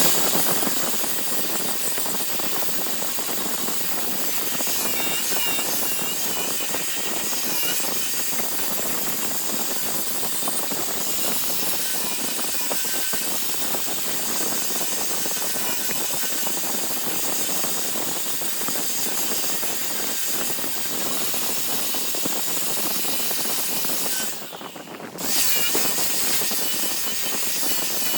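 Large wood lathe running, with a turning tool working the spinning wood, making a steady harsh noise. The noise drops out briefly about 24 seconds in, then resumes.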